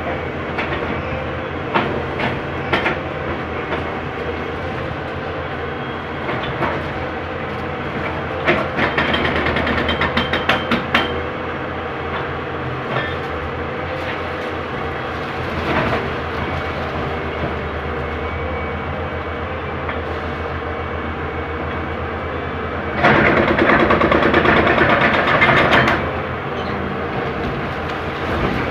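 Heavy demolition machinery, most likely an excavator's diesel engine, running steadily with scattered knocks and clanks. A quick run of knocks comes about a third of the way through, and a loud rough stretch of noise lasts about three seconds near the end.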